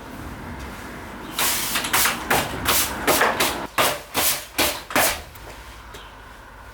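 A quick run of about eight short, rasping strokes of a hand tool tightening the bolt through the wooden table's crossed legs. They start about a second and a half in and stop a little after five seconds.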